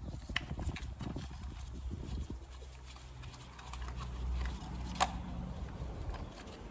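Scattered light knocks and clicks of tools and engine parts being handled, with one sharper click about five seconds in, over a low hum.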